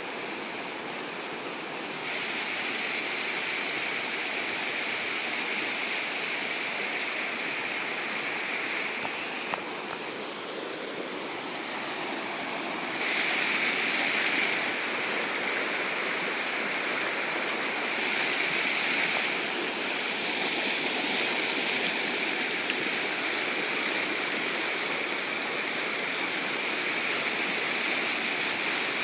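Floodwater rushing steadily, a continuous churning of fast-flowing water that swells louder for a couple of short stretches in the second half.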